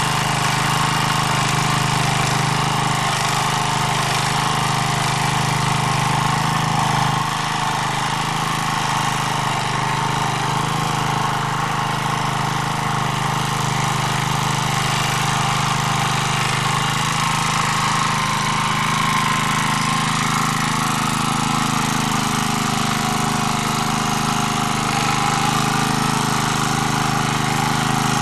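МД3 walk-behind tractor's engine running steadily while it tills garden soil with its rotary cutters in first gear. The engine note shifts slightly about two-thirds of the way through.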